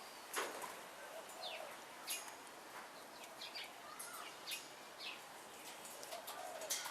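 Pet parrots giving soft, short chirps and squeaks, a few seconds apart, with scattered light clicks.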